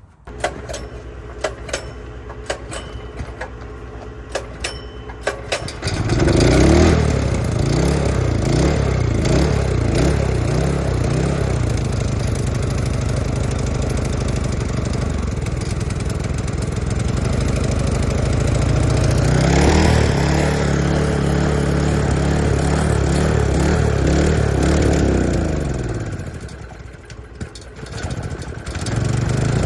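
Engine running: low and steady with light ticking at first, then revved up about six seconds in and held at a higher speed. It revs up again about two-thirds through, drops away near the end, then picks up again.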